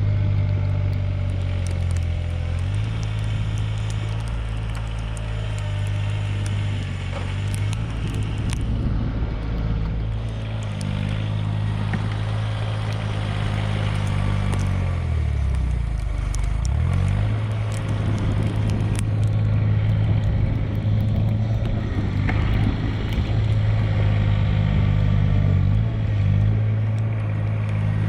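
Mahindra eMax 20S compact tractor's diesel engine running steadily under work. About halfway through, its pitch sags for a couple of seconds, as under load, then picks back up.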